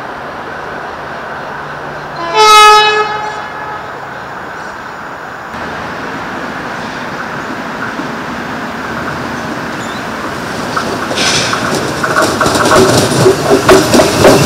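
Adelaide Metro 4000-class electric trains: one horn blast lasting about a second as a train approaches, then another train coming in and passing close, growing louder, with wheels clicking over the rail joints.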